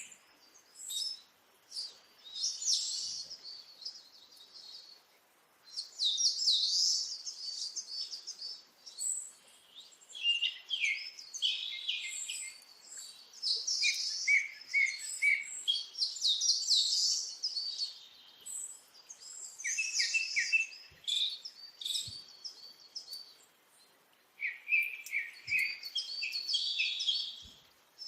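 Small birds chirping and twittering in quick, busy bursts of high notes and trills, broken by short pauses.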